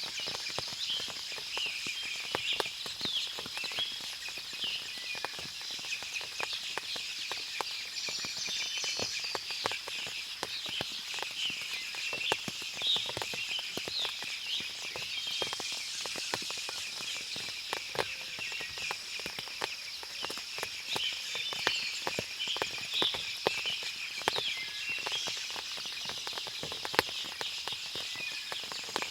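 Forest ambience after rain: many birds chirping and calling over a steady high insect drone, with frequent short ticks like water dripping from leaves.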